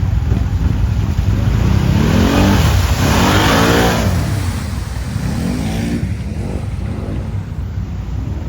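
Quad (ATV) engine revving up and dropping back several times, with a steady low rumble of wind on the microphone and a louder rush of noise around the middle.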